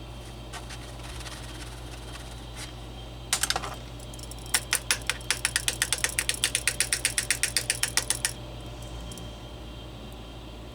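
A few scattered light taps, a short clatter about three seconds in, then a fast run of sharp taps, about eight a second for nearly four seconds, as a small part is bounced and jiggled by hand to vibrate freshly applied runny UV glue in under it.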